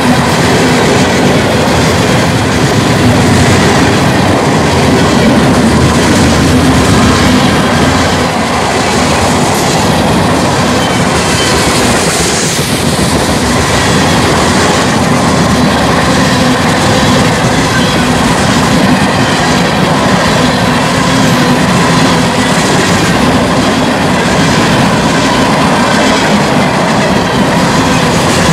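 Union Pacific freight train's cars rolling past close by: a loud, steady rolling noise with a regular clatter of wheels over the rail joints.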